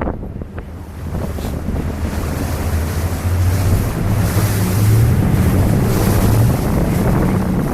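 A boat's engine drones low and builds as the boat picks up speed, while water rushes past and wind buffets the microphone.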